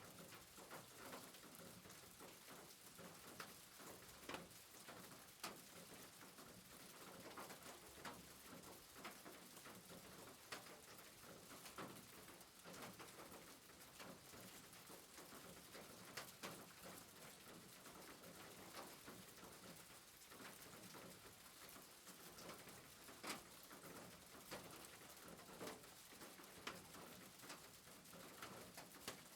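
Faint, steady soft rain, with irregular light ticks scattered through it.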